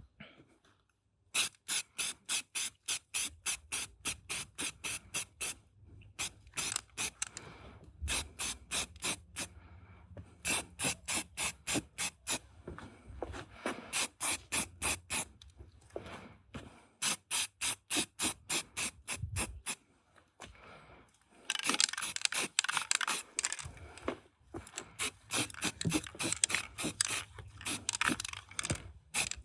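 Quick back-and-forth scraping strokes, about four to five a second, in runs of a few seconds with short pauses, busier and denser near the end.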